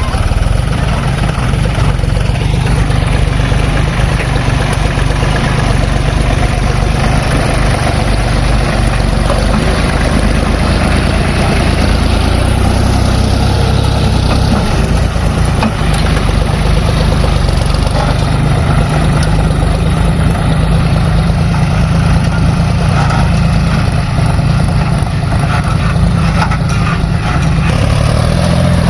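Diesel engines of a JCB 3DX backhoe loader and a tractor running steadily at work, with a deep, continuous low rumble.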